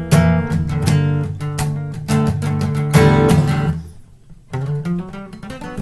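Acoustic guitar strummed in a quick steady rhythm, with a short break about four seconds in before the strumming picks up again.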